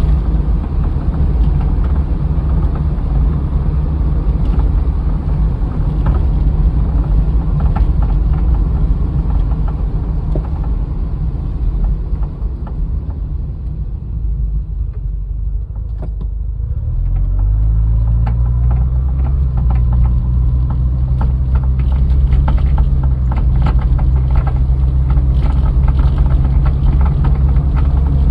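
Car running with a steady low rumble and scattered light clicks and knocks; the engine note dips, then steps up about two-thirds of the way in and holds. The knocking is an abnormal noise suspected to come from a worn steering idler arm.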